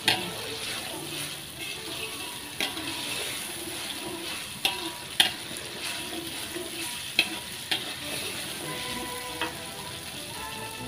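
Blended chili paste with onion and garlic sizzling in hot oil in a wok, stirred with a metal spatula that scrapes and clinks against the pan now and then. This is the tumis stage, the spice base being fried until it turns crisp and fragrant.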